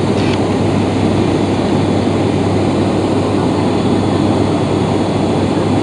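ATR 72-500 turboprop airliner's Pratt & Whitney PW127 engines and six-blade propellers running steadily, a constant low hum under an even rushing noise.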